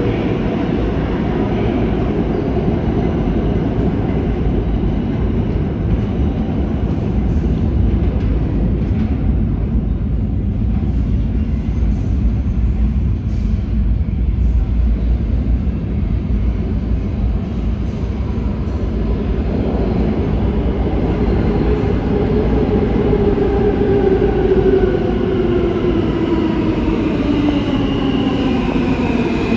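New York City subway L train (R143 or R160A-1 cars) in the station, with a loud, steady rumble of wheels on rail. From about two-thirds of the way in, the motor whine falls in pitch as the train slows, and a high squeal comes in near the end.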